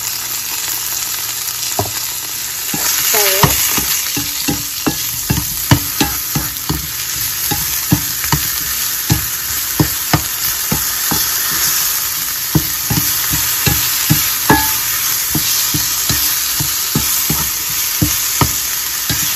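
Sliced bolete mushrooms sizzling in hot bacon fat in a frying pan, with a steady hiss. From about three seconds in, a slotted spatula stirs them, knocking and scraping against the pan about once a second.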